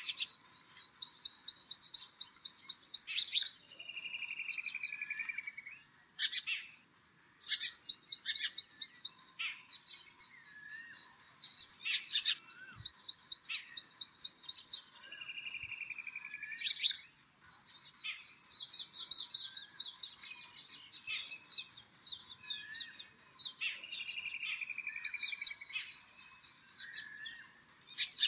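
A bird sings the same phrase again and again: a fast run of high, even notes, a falling buzzy trill, then a few sharp, loud notes.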